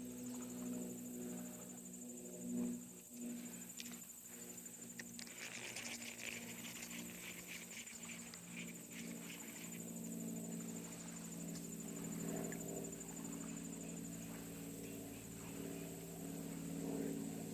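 An insect trilling: a high, steady, finely pulsed buzz that stops about 14 seconds in. A low steady hum runs underneath, with light rustling and clicks in the middle.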